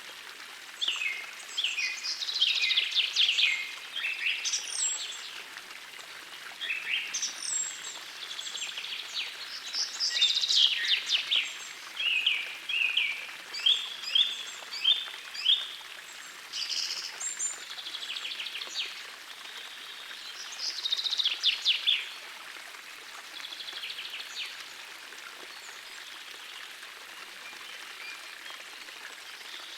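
Songbirds singing in short bursts of rapid trilled phrases over the steady rush of a small forest stream. The birdsong thins to a few faint notes over the last several seconds, leaving mostly the stream.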